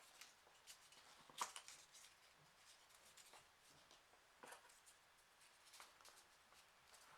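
Faint rustles and clicks of small folded printer-paper origami pieces being handled and pushed into place, a few short sounds spread out, the loudest about a second and a half in.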